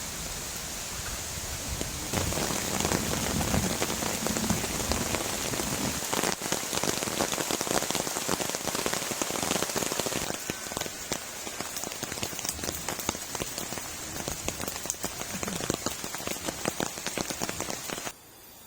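Heavy rain falling, dense drops ticking on a surface, with a low rumble under it for the first few seconds. The rain sound shifts in character twice along the way and cuts off suddenly near the end.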